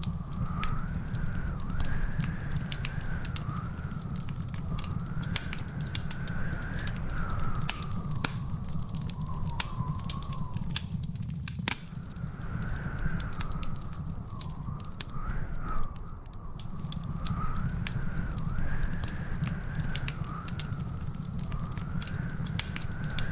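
Wood fire in a fireplace crackling, with frequent sharp pops over a steady low rumble. A wavering whistle-like tone rises and falls behind it, dropping out briefly about halfway through.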